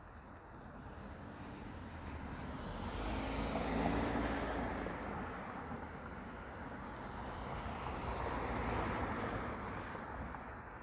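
Two road vehicles passing one after another, each swelling and fading away. The first is the loudest, about four seconds in, with an engine hum; the second peaks near nine seconds.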